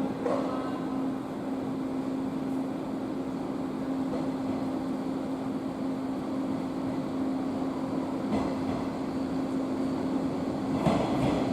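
JR 115 series electric train: a steady hum with one pitch, with a few brief knocks, the clearest near the end.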